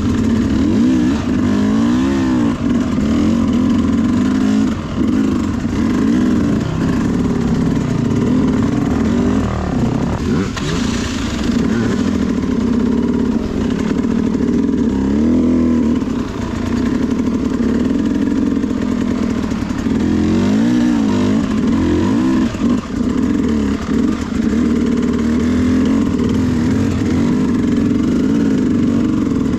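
Sherco SE300 two-stroke single-cylinder dirt bike engine working under constant throttle changes, revving up and falling back again and again. There is a short hiss about ten seconds in.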